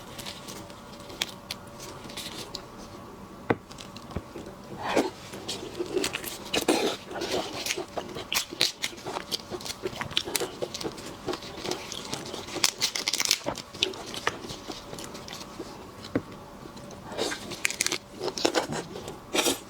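Seafood shells being cracked and torn apart by hand, with crunchy bites and wet chewing in irregular bursts.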